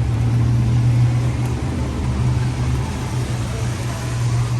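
2012 Ford Mustang GT's 5.0 V8 running at low, steady revs, a constant low drone.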